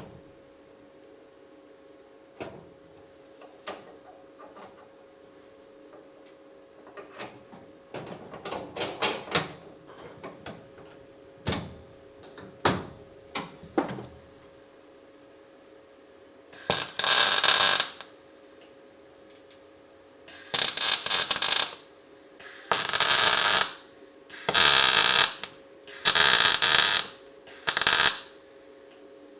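Six short bursts of harsh crackling hiss, each about a second long, typical of MIG welding on car body steel. Scattered knocks and clicks of metal being handled come before them.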